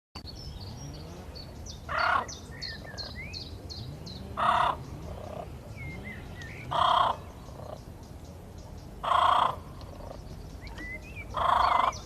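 A bird giving a loud call five times, about every two and a half seconds, each call short. Many small high chirps from other birds run underneath, thickest in the first few seconds.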